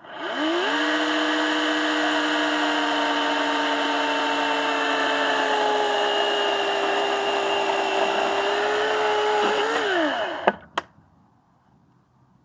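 Electric saw motor spinning up from a standstill and running steadily at high speed, its pitch sagging slightly over the run as if loaded by a cut, then winding down and stopping about ten seconds in. Two sharp clicks follow as it stops.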